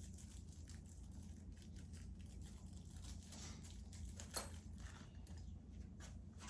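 Faint clicks and rustles of small metal washers and screws being handled on a workbench, with one sharper click about four and a half seconds in, over a steady low hum.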